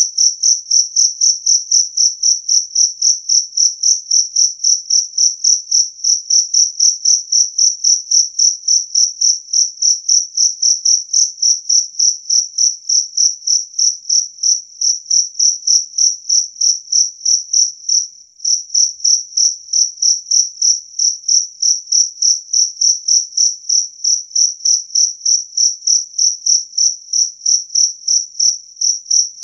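Two-spotted field cricket (jangkrik kalung) calling: a loud, clear, high-pitched chirp repeated about five times a second, with one brief pause about 18 seconds in.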